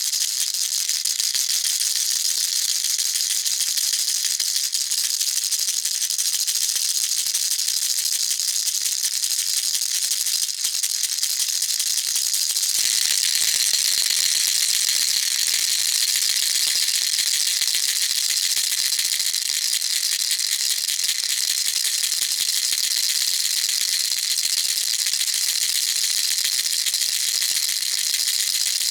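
Baby rattle shaken steadily: a fast, continuous rattling with most of its sound high up. Its tone shifts a little about thirteen seconds in.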